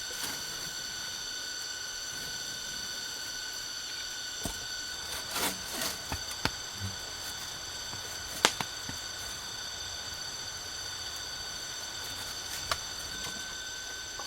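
Steady, high-pitched insect chorus of several droning tones. Over it come a few sharp clicks and knocks, a cluster a third of the way in and the loudest a little past the middle.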